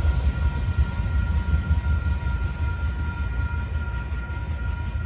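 Gravel train of hopper cars rolling past, a steady low rumble with thin steady ringing tones above it, slowly fading.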